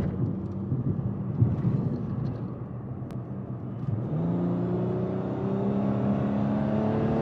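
Car engine rumbling at low revs, then about four seconds in pulling away and accelerating, its note rising slowly and steadily.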